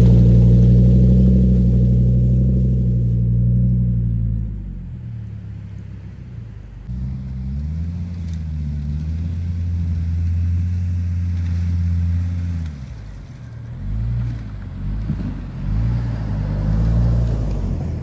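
Hummer H3 engine revving up and easing off several times: a long loud run at first, a rise and fall in the middle, then a few short bursts of throttle near the end.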